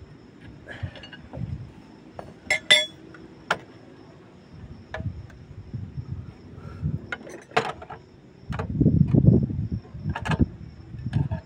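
Metal hand tools clinking and knocking on car brake parts during a disc pad replacement: scattered sharp clicks, a ringing metallic clink a few seconds in, and a louder low rumbling stretch about nine seconds in.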